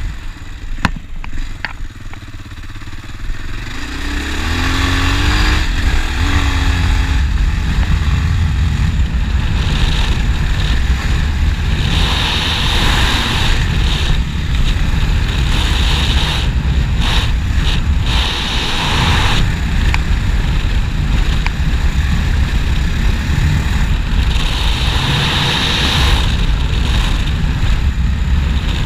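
Honda Dominator NX650's single-cylinder four-stroke engine, quieter at first, then accelerating about four seconds in and running hard under load with a steady wash of wind and riding noise.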